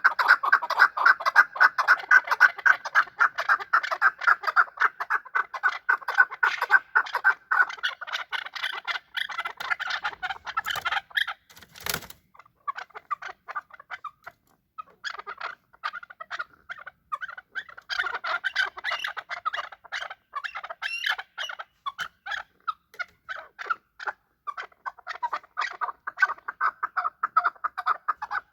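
Chukar partridge calling: a fast, continuous run of clucking chuck notes that breaks off about ten seconds in. A single sharp knock follows, then the clucking resumes in looser, uneven runs.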